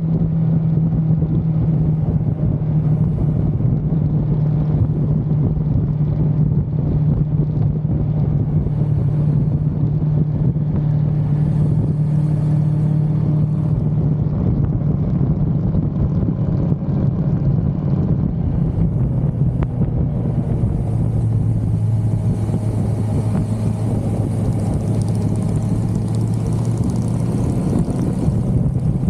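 1982 Suzuki GS550L's air-cooled inline-four running steadily at cruising speed; about two-thirds of the way through its pitch drops to a lower steady note, as after an upshift or easing off the throttle, and a rushing hiss grows over the rest.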